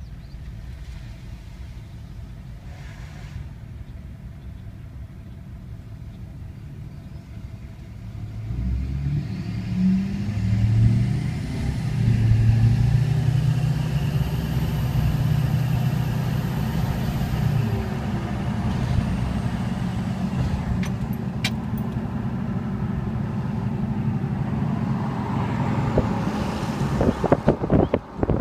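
A motor vehicle's engine approaches, passes close by about halfway through and slowly fades away. Wind buffets the microphone near the end.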